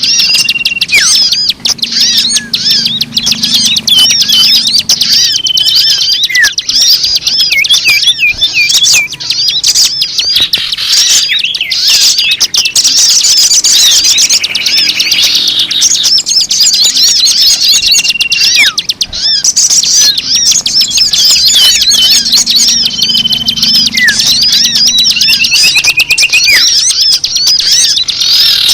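A dense, loud chorus of many small birds chirping and twittering together, with short steady whistle notes here and there: a bird-lure recording of mixed songbird calls, its pattern recurring about every 18 seconds as a loop.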